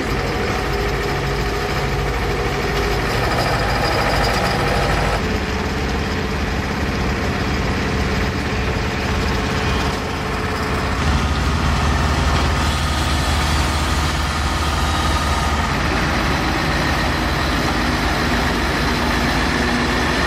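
Heavy truck diesel engines running, a low steady rumble that changes abruptly several times.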